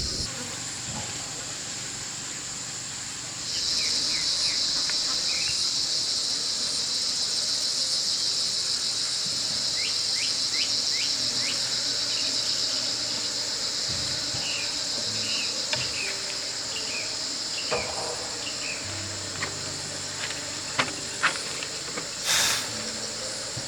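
Steady, high-pitched shrilling of an insect chorus that swells louder about three and a half seconds in, with a few short chirps and clicks over it and a brief loud noise near the end.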